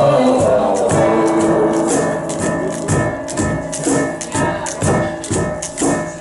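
Group song with shaken hand percussion: a held sung note fades over the first second or two, then a rattle keeps a steady beat of about two strokes a second under short sung sounds.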